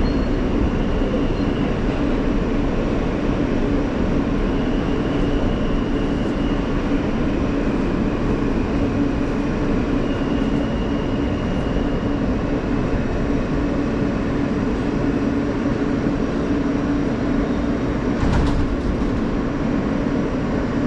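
New York City subway E train car running between stations, heard from inside the car: a steady rumble with a faint high whine that comes and goes every few seconds.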